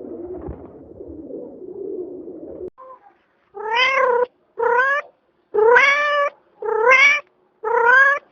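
A domestic cat meowing five times in a row, each meow about half a second long and rising in pitch. It follows a low warbling sound in the first few seconds.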